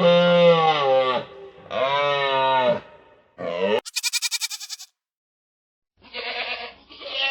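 An animal's bleating calls: a long wavering cry, then another, then a short one, followed by a quick rattling burst; after a second of silence, more calls begin near the end.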